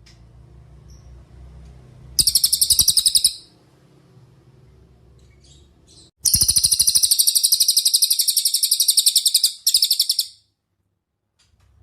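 Cililin songbird singing in rapid, high trills of fast repeated notes: a short burst about two seconds in, then a long trill of about three seconds from the middle, and another short burst right after it. A faint low hum lies under the gaps.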